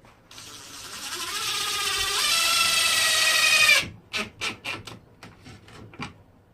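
Power drill driving a screw into wood: the motor whine climbs in pitch and loudness for about three and a half seconds and cuts off suddenly. A handful of sharp knocks follow.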